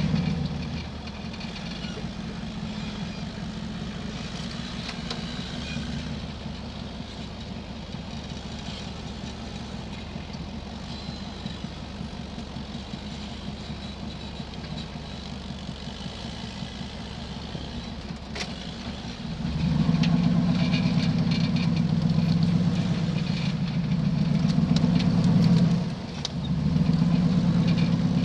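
Rock-crawling buggy engine running steadily at low revs, then revving up and held at higher revs from about two-thirds of the way in, easing off briefly near the end before coming back up.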